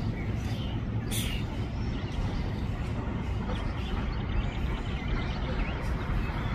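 Low, steady rumble of a passing freight train, growing slightly louder near the end, with birds chirping now and then.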